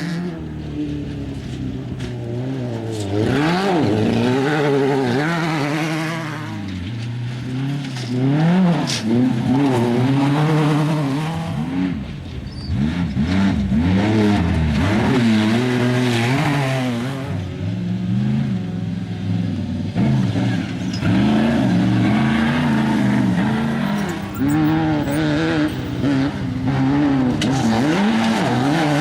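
Off-road desert race vehicle engines revving, the pitch rising and falling again and again.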